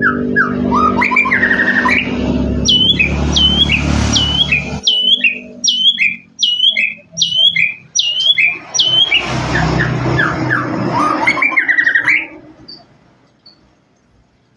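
White-rumped shama (murai batu) singing a varied song, its middle a run of about a dozen sharp falling whistles repeated every half second. A low hum sits under the first few seconds and again near the end of the song. The song stops about two seconds before the end.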